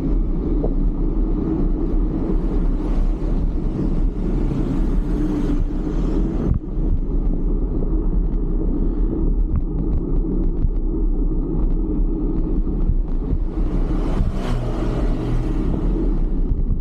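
Steady low rumble of wind and road noise on the camera while cycling in traffic, with small knocks from the road. Two vehicles pass, each swelling and fading, the first a few seconds in and the second near the end.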